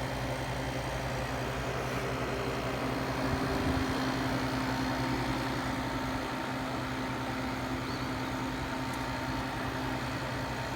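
1968 General Electric Fashionette 6000 window air conditioner running on low, heard from its outdoor side: a steady low hum with the rush of the fan's air.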